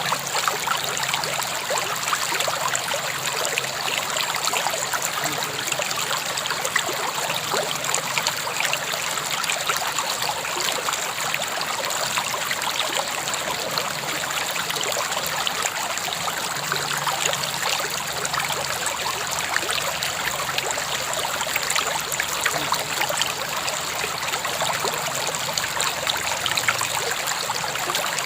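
River water flowing steadily over stones, a continuous rushing babble with fine splashing detail.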